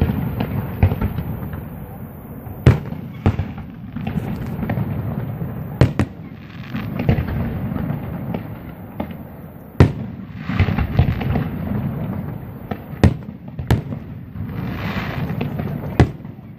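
Fireworks display: aerial shells bursting with about seven sharp bangs a few seconds apart, over continuous crackling.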